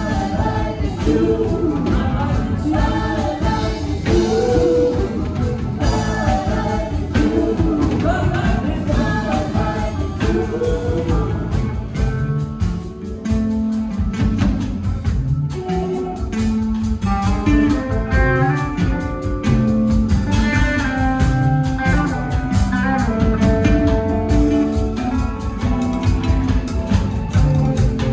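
Rock band playing with a vocal over guitars, bass and drum kit; around the middle the singing drops out and the guitars carry on with an instrumental passage.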